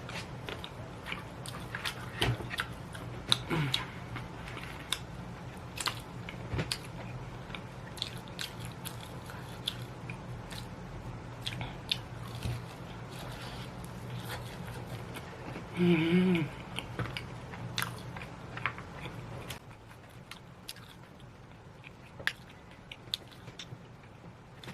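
Close-miked chewing and crunching of crispy Korean fried chicken, irregular crisp bites and mouth clicks throughout, with a short closed-mouth hum about two-thirds of the way through.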